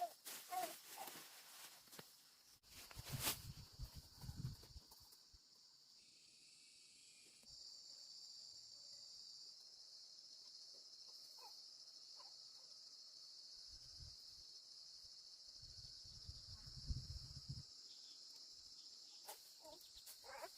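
Steady high-pitched drone of insects, crickets or cicadas, with a few dull low thumps about three seconds in and again near the end.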